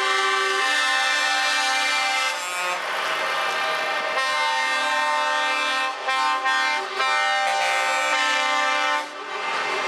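Truck air horns blowing long, held chord blasts, broken by short gaps about every two seconds.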